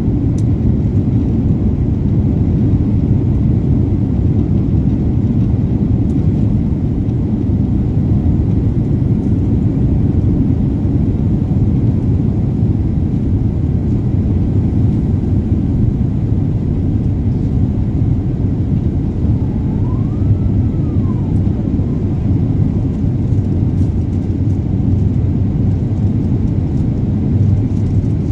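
Steady low rumble of an Airbus A350-900's Rolls-Royce Trent XWB jet engines and airflow, heard inside the passenger cabin. A faint short tone rises and falls about twenty seconds in.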